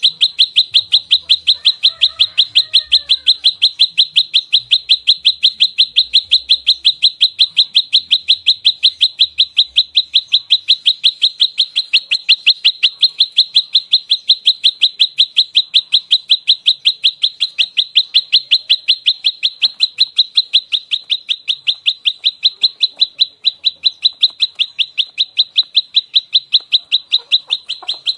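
Prenjak lumut giving its fighting call: a rapid, unbroken string of identical sharp chirps, several a second, each sliding down in pitch. This is the territorial call used to lure and train the bird.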